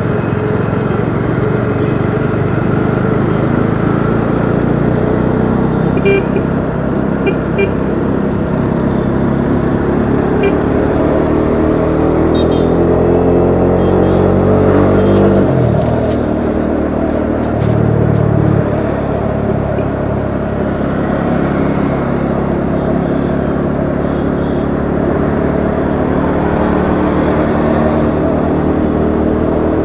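Bajaj Dominar 400's single-cylinder engine running on the road, its note climbing steadily as the bike accelerates, then dropping abruptly about halfway through before settling into steady cruising. A few short horn beeps from traffic come through in the first half.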